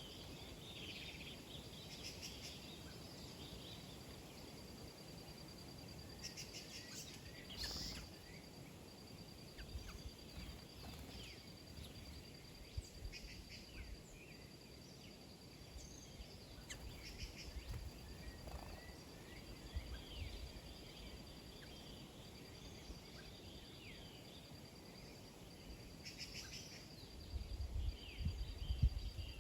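Small birds chirping and calling in many short notes over a steady high-pitched buzz, with a low rumble near the end.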